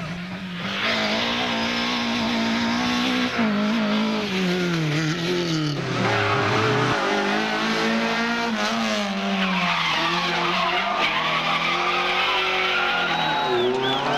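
Rally car engine pulling hard, its pitch climbing and dropping repeatedly through gear changes and lifts off the throttle, with tyres skidding and squealing as the car slides. The engine comes in loud about a second in.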